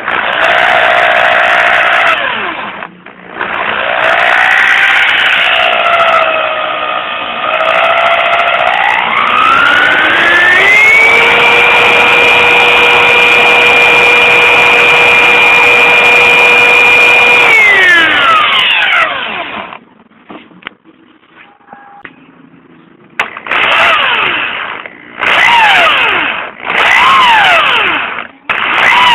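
A motor spins a washing-machine motor converted into a permanent-magnet alternator. It speeds up unevenly, climbs to a steady high whine held for about six seconds, then winds down and stops. After a pause come several short revs, each rising and falling.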